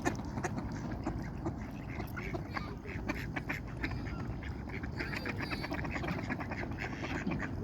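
Ducks quacking: a run of many short, rapid calls over a steady low rumble.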